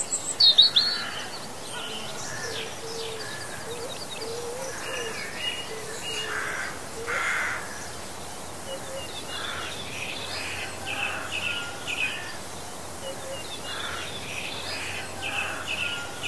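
Birds chirping and singing, with many short calls and trills at varied pitches over a steady faint hiss.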